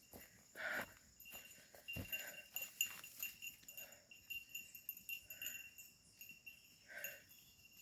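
Sheep moving about on a grassy, wooded pasture, with short faint calls every second or two and light scattered footfalls, over a steady high ringing.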